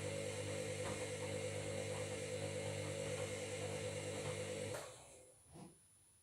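Washing machine running with a steady whirring hum of several held tones, which cuts off suddenly about three-quarters of the way through, leaving only a faint background.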